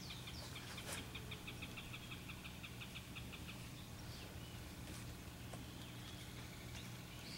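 A bird trilling faintly: a rapid run of high chirps, about eight a second, that stops about three seconds in, over a steady low hum. A single click sounds about a second in.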